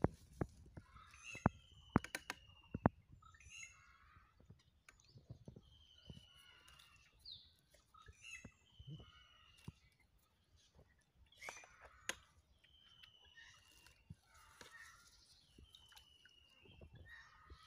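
Birds calling: a thin, slightly falling whistle repeated every two to three seconds among other scattered chirps. A few sharp clicks come in the first three seconds and one more about twelve seconds in.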